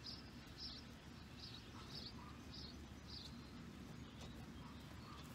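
A songbird chirping faintly, the same short call repeated about twice a second, stopping a little past halfway.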